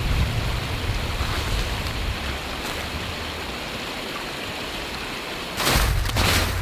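Steady hiss of heavy rain with low wind rumble on the microphone, growing suddenly louder and more uneven near the end.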